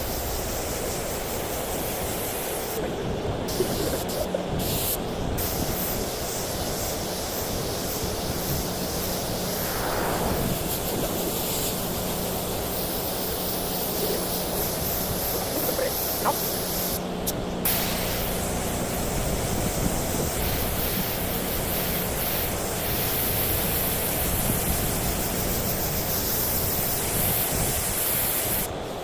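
Paint being sprayed from a spray gun in a long, steady hiss, with the trigger let off briefly a few times.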